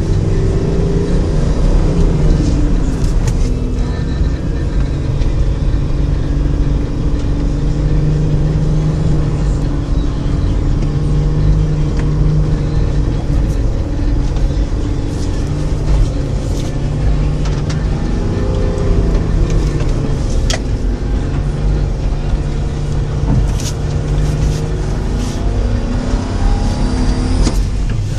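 Car engine heard from inside the cabin, running steadily and revving up and down a few times as the car drives over snow, with a few brief sharp ticks.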